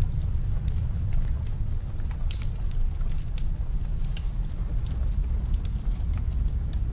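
Wood fire crackling with scattered small pops, a sharper one about two seconds in, over a steady low rumble of blizzard wind.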